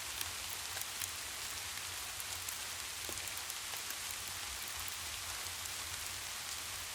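Steady rain falling: a constant hiss with many scattered sharp ticks of drops, over a steady low rumble.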